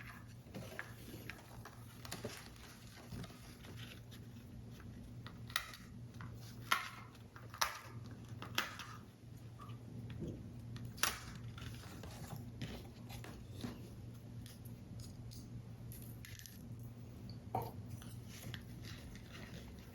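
Paper model parts being handled and worked: irregular crinkling of card paper with sharp clicks and taps. The loudest snaps come between about five and nine seconds in and again around eleven seconds, over a low steady hum.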